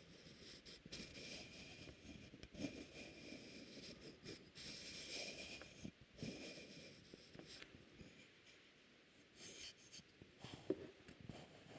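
Faint, close-miked scratching and rustling from an ASMR trigger, uneven in rhythm, with a few short soft clicks, the sharpest near the end.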